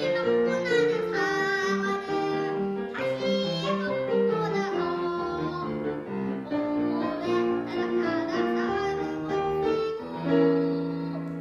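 A young child singing a Korean children's song (동요) over an instrumental accompaniment, ending on a long held note near the end.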